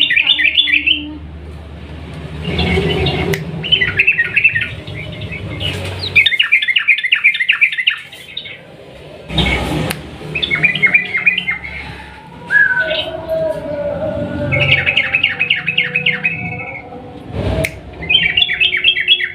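Yellow-vented bulbul (trucukan) singing long rapid chattering phrases, about six bursts of quickly repeated high notes, each a second or two long. Two short thumps break in, one about halfway through and one near the end.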